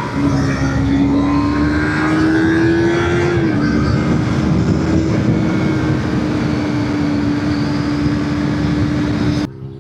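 Sport motorcycle engine running at steady high revs under way, its pitch climbing slowly and then dipping briefly about three and a half seconds in. It cuts off abruptly just before the end.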